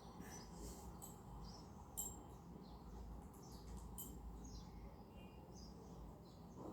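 Small pet parrots chirping and chattering faintly, with many short, high calls scattered throughout and a few sharper chirps standing out.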